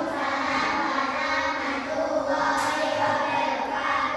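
A class of young children singing together in unison, holding long notes.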